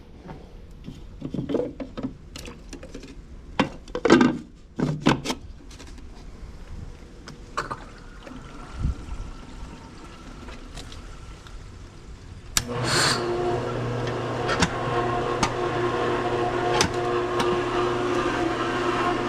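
Scattered knocks and clunks from handling the pool pump's strainer basket and lid, then about two-thirds of the way in the pool pump motor switches on and runs with a steady hum.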